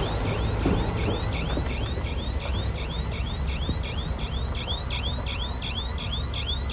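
Heavy construction machinery running with a low engine rumble, over which a rhythmic high-pitched squeal repeats about three times a second.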